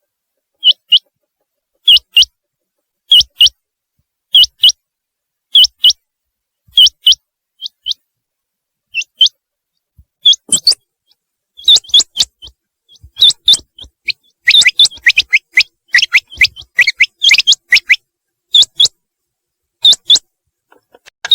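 Common quail calling: short, sharp high notes in pairs, repeated about once every 1.2 seconds. From about ten seconds in the calls come faster and overlap, with some lower notes among them.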